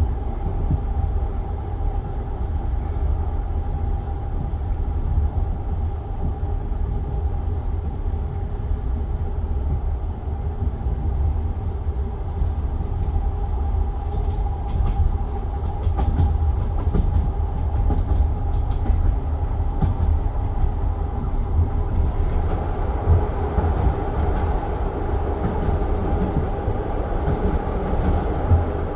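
Steady rumble of a passenger train carriage heard from inside, with an even hum and occasional faint clicks of the wheels on the rails.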